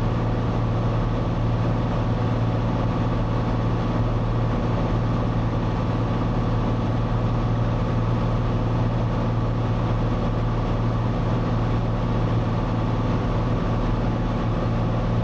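Cessna 182's piston engine and propeller heard through the cockpit intercom as a steady drone with a strong low hum, unchanging in pitch.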